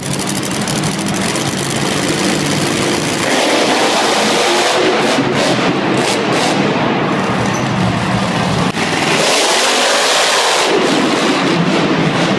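Monster truck engines running loud and revving, with a rise and fall in engine pitch near the end.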